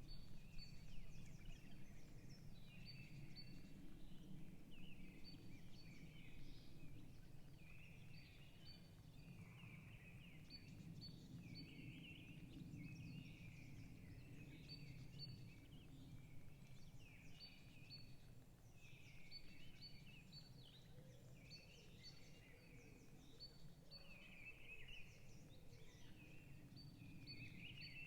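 Several forest birds chirping and warbling, with short high chirps recurring every second or so, over a faint low background rumble.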